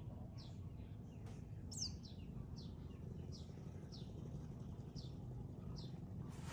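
Small birds chirping: short, high notes that slide downward, repeated about twice a second, with one brighter, higher chirp near 2 seconds in, over a steady low background rumble.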